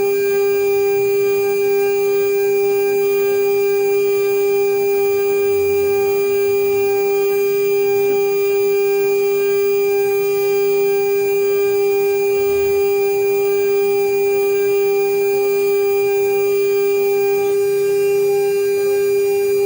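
CNC router spindle running at a constant speed, a steady high whine with a string of overtones that holds one pitch throughout.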